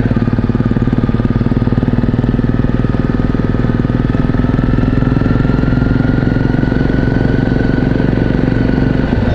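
Single-cylinder four-stroke dual-sport motorcycle engine running steadily at low road speed, heard from on the bike, its pitch creeping up a little through the middle.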